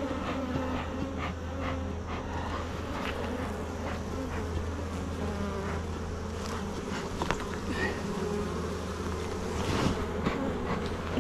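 Honeybees buzzing steadily in a mass around an open hive, with a few light clicks from the hive being worked.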